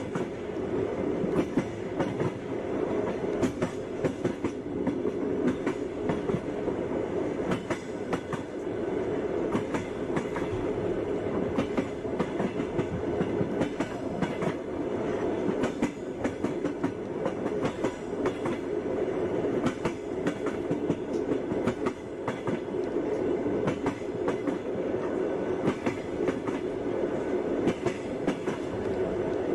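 Moving train: a steady rumble with frequent sharp clacks of the wheels running over the rail joints.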